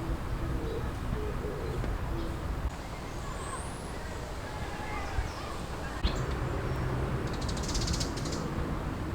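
Wild birds calling faintly over a steady low wind rumble on the microphone, with a short buzzy high note about eight seconds in.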